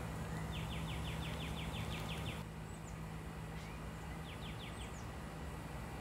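Wild songbirds calling: a quick trill of about a dozen falling notes around a second in, a shorter trill near the middle, and a few thin high chirps. A steady low hum runs underneath.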